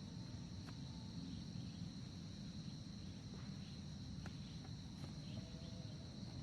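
Forest insects keeping up a steady high-pitched chirring drone over a low rumbling background, with a few faint clicks and brief faint whistles.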